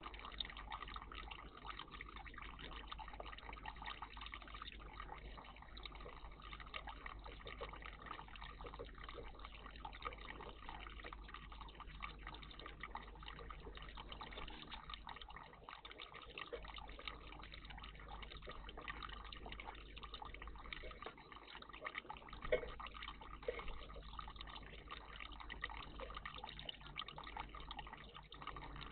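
Water trickling and dripping in a garden bird bath, a steady run of small drips.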